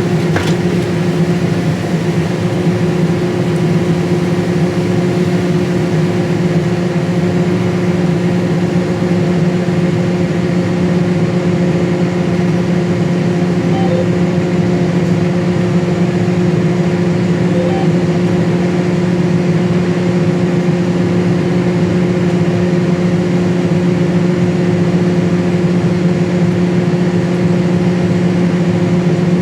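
John Deere combine running at a steady speed, an even, unchanging hum heard from inside the cab.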